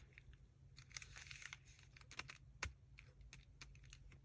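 Faint rustling of paper with a scatter of light taps and clicks, as paper pieces are handled and sorted.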